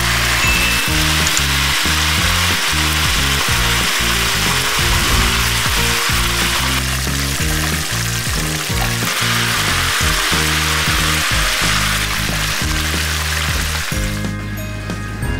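Chicken drumsticks sizzling and crackling as they fry in hot oil, over background music. The sizzling cuts out near the end, leaving only the music.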